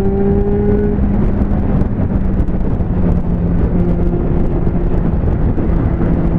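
Liter-class motorcycle engine running at a steady cruise, one steady tone under wind rushing over the microphone.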